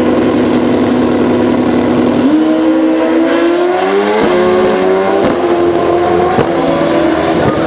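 Pro Street drag-racing motorcycles run down the strip. The engine note is held steady at first, then launches about two seconds in, its pitch climbing and dropping back at each upshift, three or four times.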